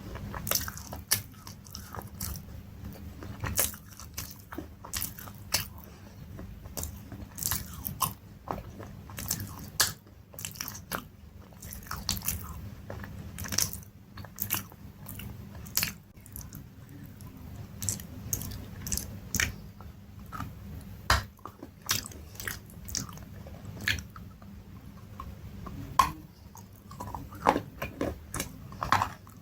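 Close-miked chewing and biting of crunchy food: a steady run of sharp, crisp crunches at an irregular pace.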